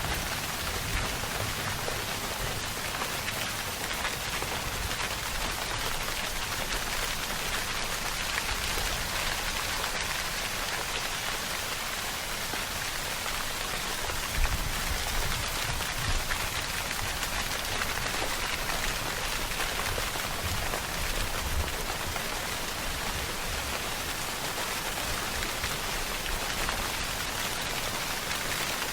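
Steady rainfall on a surface, a dense even hiss of many drops with no let-up, and a few faint low rumbles underneath.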